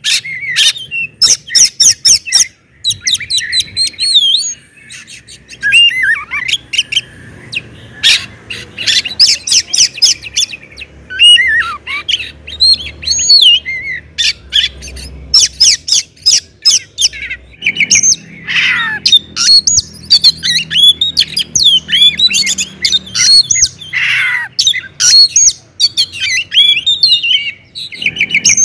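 Oriental magpie-robin in full, loud song: a fast, varied run of clear whistles, sweeping slurred notes and sharp chip notes, broken by a few short pauses.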